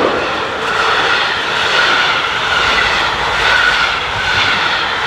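Passenger coaches of a train rolling past close by: a loud, steady rush of wheels on rail that swells and eases about once a second.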